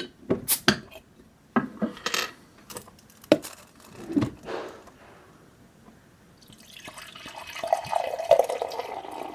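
Glass and hard objects clink and knock a few times, then beer, the imperial stout, is poured: a steady pouring noise that starts about two-thirds of the way in and grows louder.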